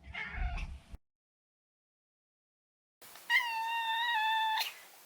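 Maine Coon cat meowing: a short meow over a low rumble in the first second, then after a pause one long meow held at a level pitch for over a second.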